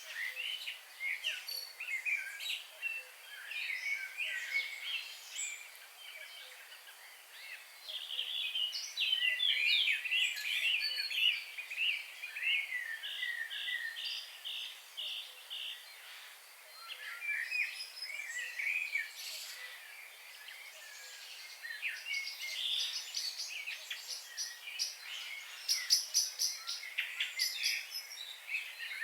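A chorus of several wild birds singing and calling over one another in short chirps and warbles, with a run of about seven evenly spaced notes around the middle and a burst of rapid high chirps near the end.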